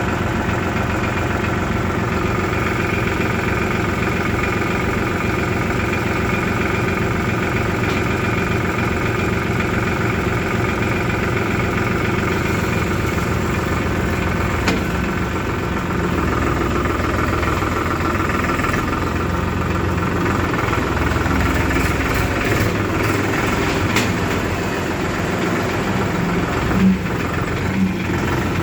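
Diesel engines of a backhoe loader and tractors running steadily, with a few light clicks about two thirds of the way through and two short knocks near the end.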